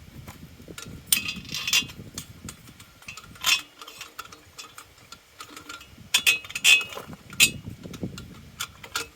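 Scattered sharp metal clicks and clinks as the steel parts and bolts of a truck hitch game hoist are handled and fastened, with a quieter stretch in the middle.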